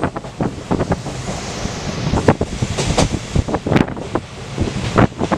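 Train running, heard at an open carriage window: wind buffeting the microphone, with irregular knocks and rattles. The wind rises in a brief high rush partway through.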